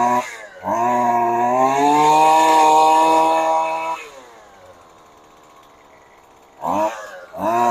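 Husqvarna 128 LD string trimmer's 28 cc two-stroke engine being revved on its newly fitted carburetor. A quick blip is followed by a longer rev held high for about three seconds. It drops back to a low idle, then gets two short blips of the throttle near the end.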